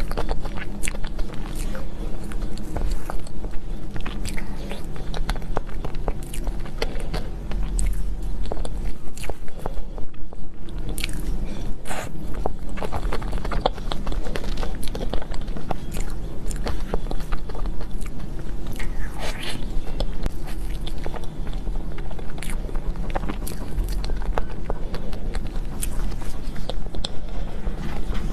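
Close-miked eating of cake and desserts: a steady run of bites, wet chewing and small crunches, over a low steady hum.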